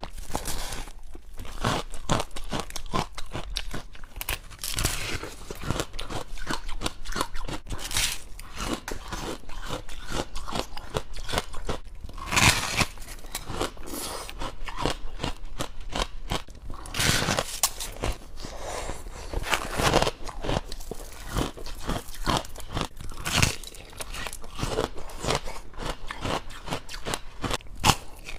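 Close-up crunching and chewing of soft white frost ice, with repeated bites and a few louder crunches every few seconds.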